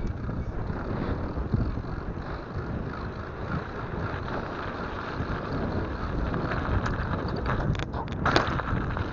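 Wind buffeting the microphone during a mountain-bike ride, with a steady rumble throughout and a few sharp knocks and rattles near the end.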